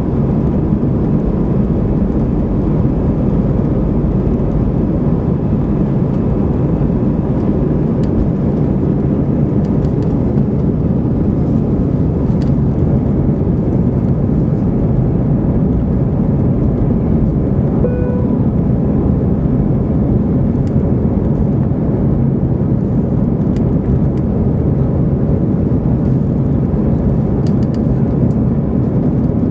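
Steady engine and airflow noise heard inside an Airbus A319 cabin during the climb, heaviest in the low range. A brief, chime-like tone sounds once, a little past the middle.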